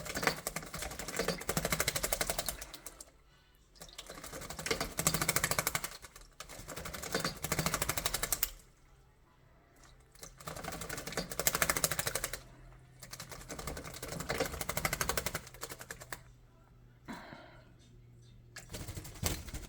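A starling bathing in a shallow tub of water: repeated bouts of rapid wing-flutter splashing, each a second or two long, with short pauses between.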